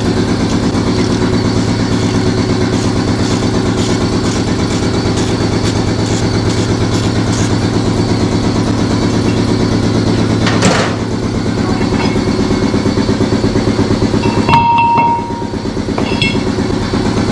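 Shop air compressor running with a steady, fast-pulsing drone. A sharp metallic knock comes about two-thirds of the way through, and near the end there is a brief metallic ring with a few light clicks as the drone dips.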